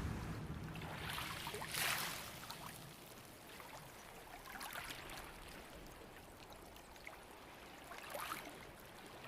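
Faint wash of sea water, with a few brief swells of splashing about two, five and eight seconds in.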